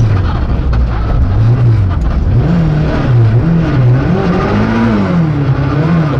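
Suzuki Ignis S1600 rally car's 1.6-litre four-cylinder engine heard from inside the cabin, driven hard: the revs rise and fall about once a second through throttle lifts and gear changes.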